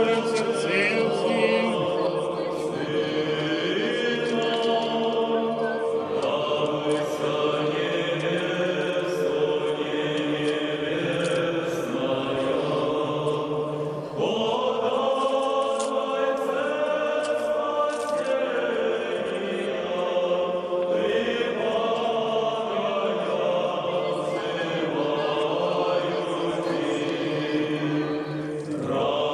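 A group of people singing an Orthodox church hymn as a chant, the sung phrases running on with a short break about halfway through and another near the end.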